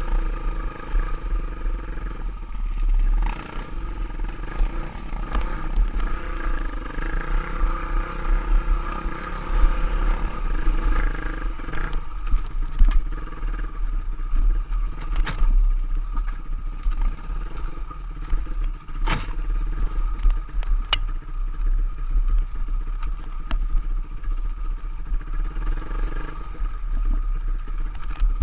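Off-road trail motorcycle engine running under way, its pitch rising and falling slightly with the throttle. A few sharp knocks and clatter come through in the second half.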